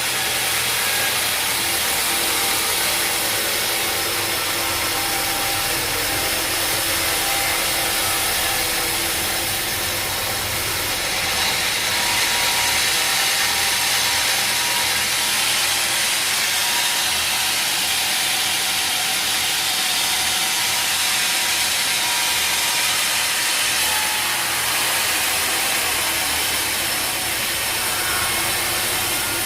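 Steady, unbroken noise of sawmill machinery sawing wood, with a rasping, ratchety mechanical edge and no breaks or pauses.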